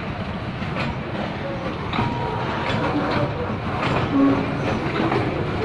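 Freight train wagons rolling past close by: a steady rumble of steel wheels on the rails, broken by irregular clacks as the wheels cross rail joints. A few short wheel squeals come through, the loudest about four seconds in.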